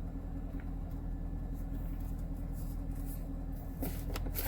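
C7 Corvette's 6.2-litre V8 idling steadily, with a few light clicks near the end.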